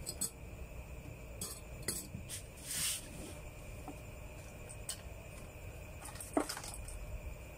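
Light, scattered clicks and clinks of small tools and parts being handled, with a short scraping hiss about three seconds in.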